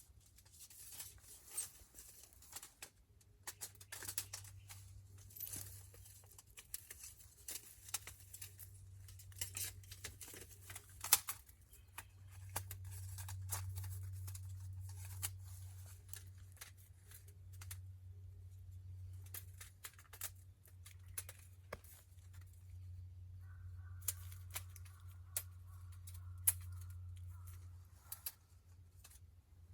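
Wood campfire crackling, with irregular sharp pops and snaps over a low steady hum. A faint steady tone joins in for a few seconds near the end.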